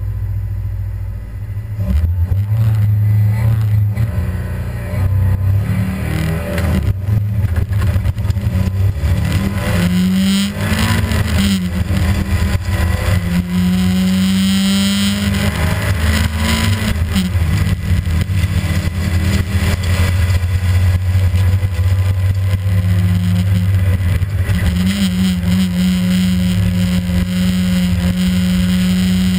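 Rally car's engine heard from inside its stripped cabin, driven hard on a stage, its note climbing and dropping again and again as it accelerates, shifts and brakes. Under it runs a hiss of tyres on a very wet track.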